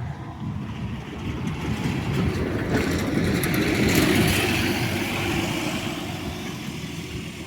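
Bus driving past on the guided busway, growing louder to its nearest about four seconds in and then fading away.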